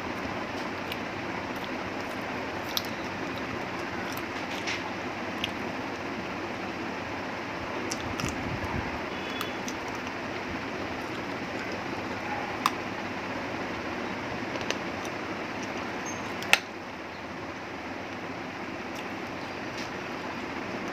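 A person chewing chicken and rice, with scattered short wet mouth clicks and smacks over a steady background hiss; the sharpest click comes about three-quarters of the way through.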